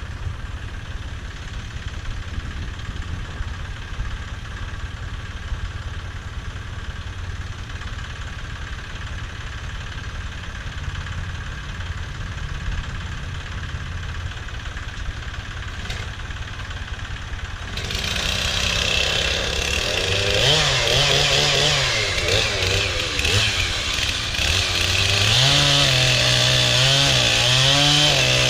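Tractor engine running steadily at a low rumble. About two-thirds of the way in, a two-stroke chainsaw comes in loud, cutting into a log, its engine pitch rising and falling under load.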